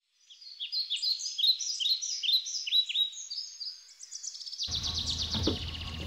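Songbirds singing: a rapid, continuous run of short chirps that sweep downward in pitch. About four and a half seconds in, a low steady background rumble joins while the chirping goes on.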